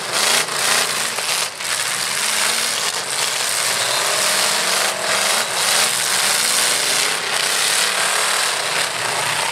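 Demolition-derby pickup trucks' engines running and revving, under a steady noisy wash.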